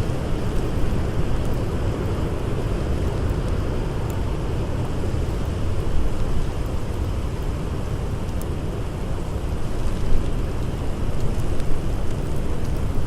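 Steady blizzard wind noise, strongest in the low rumble, with a few faint crackles of a wood fire.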